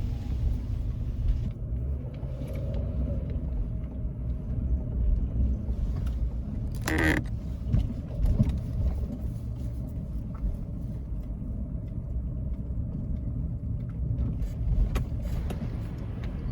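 Van driving slowly, heard from inside the cabin: a steady low engine and road rumble, with a brief sharp noise about seven seconds in.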